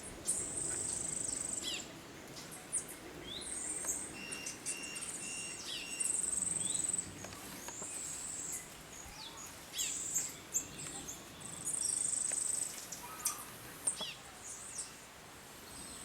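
Small birds calling: repeated high-pitched buzzy trills about a second long, quick down-slurred chirps, and a short run of evenly spaced whistled notes, over a faint background of insects.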